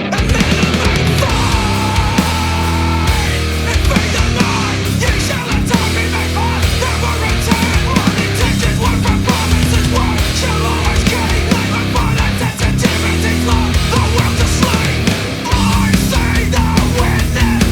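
Black metal music: distorted electric guitars, bass and drums playing at full volume, with the full band coming in right at the start after a quieter guitar passage.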